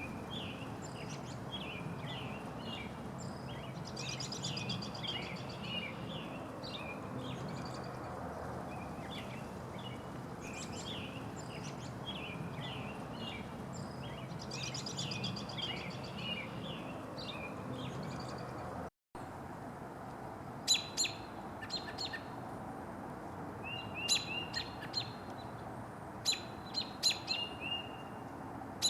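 Several songbirds singing, with quick chirps and repeated trilled phrases. After a short break about two-thirds through, sharp clicks and short chip notes take over.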